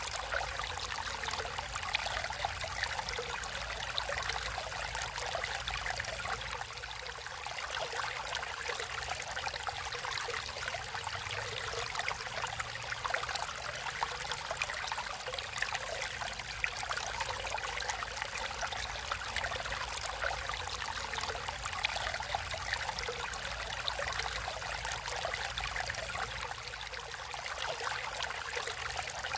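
Water in a natural stream flowing steadily, a continuous rush and trickle.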